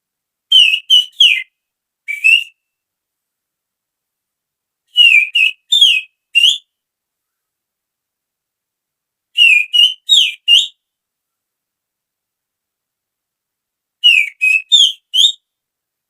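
A person whistling through the fingers, imitating the call of a female oriental magpie-robin (kacer). Four bursts of three or four short, sliding whistled notes come about four and a half seconds apart.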